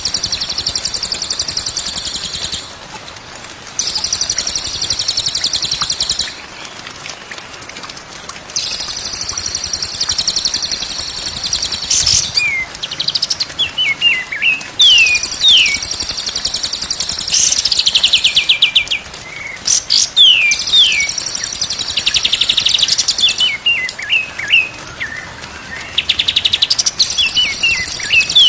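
Songbird song: long, dense, very high buzzing trills of a few seconds each, alternating with quick runs of sharp whistled notes that sweep up and down.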